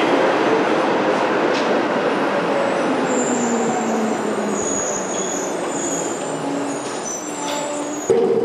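Rail vehicle running, its rumble slowly fading as it slows, with high-pitched wheel or brake squeal from a few seconds in. It cuts off suddenly near the end into a different steady hum.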